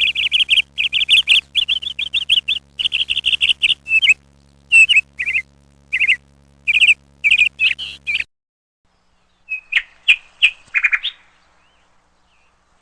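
A bird chirping in quick runs of high, repeated chirps that stop abruptly about eight seconds in; after a short gap, a few more chirps.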